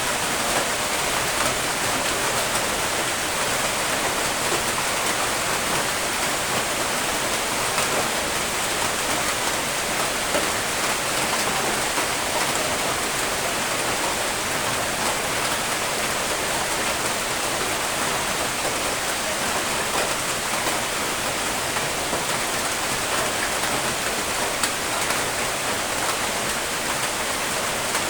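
Steady rain falling, an even hiss of many drops with faint scattered patters on a surface, continuous and unchanging.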